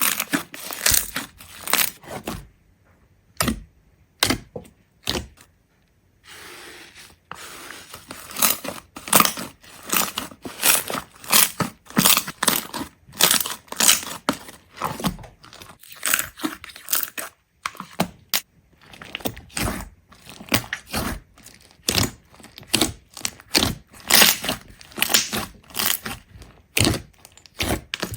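Irregular crunching and cracking, a few sharp strokes a second, with a short lull about three seconds in and a brief hiss near seven seconds before the crunching resumes.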